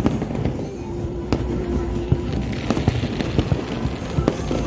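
Fireworks display: many overlapping bangs and crackles at irregular intervals over a continuous low rumble of distant bursts.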